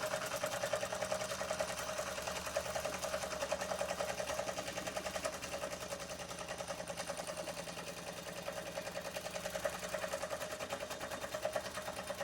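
Doll 360 model ship's steam engine running fast with a rapid, even beat, turning freely on little steam pressure.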